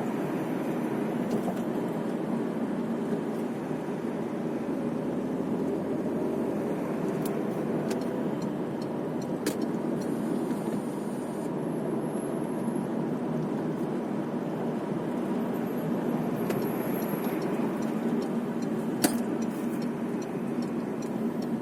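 Steady road and engine noise of a car driving, heard from inside the cabin, with a few faint clicks.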